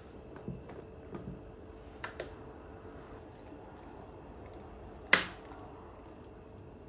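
Light clicks and knocks of things being handled, then one sharp, louder knock about five seconds in, over quiet room tone.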